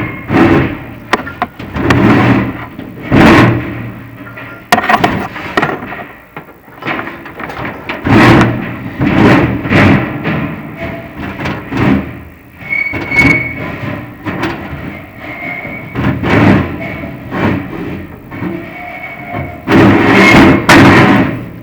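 Chimney inspection camera knocking and scraping against the metal flue of a prefabricated fireplace as it is lowered, in irregular knocks every second or two with a few brief ringing tones.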